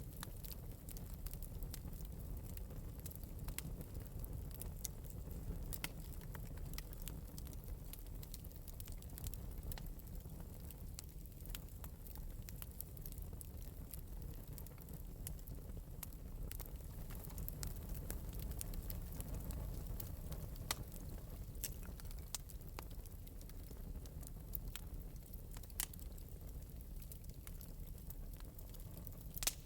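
Wood fire burning in an open metal fireplace, a steady low rumble of flames with scattered light crackles and pops, a few sharper pops near the end.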